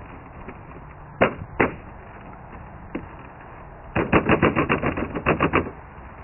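Sharp knocks and clicks from working on the truck's plastic interior trim: two single knocks, then a fast run of about a dozen clicks.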